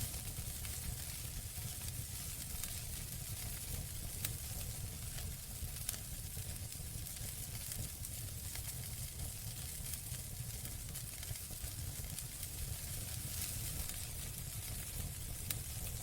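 Campfire burning: a steady hiss with sharp crackles and pops every second or two, over a low rumble.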